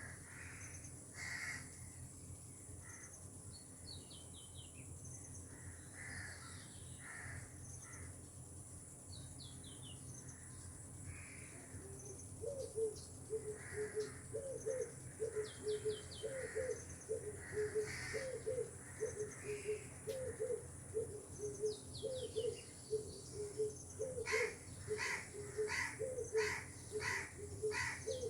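Several birds calling outdoors: scattered chirps and short trills throughout, joined about halfway by a low call repeated over and over, and near the end by a run of harsh, crow-like calls about two a second, over a steady faint hiss.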